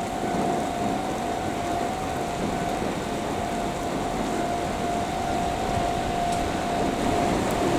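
Steady mechanical hum of a Hokuriku Shinkansen train with a steady whine, which cuts off near the end.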